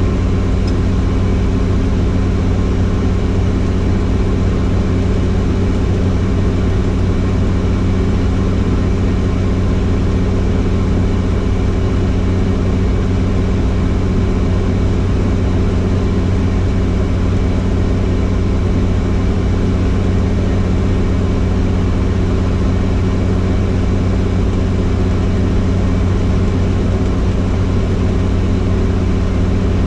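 Helicopter running steadily, a loud, even low hum with a constant engine and rotor tone.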